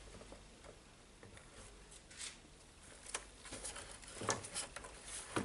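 Faint handling noise: scattered light clicks and rustles as parts inside an opened radio are moved about, with a few small knocks about two, three and four seconds in.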